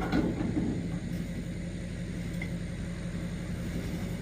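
Dually pickup truck's engine idling steadily with a low, even hum.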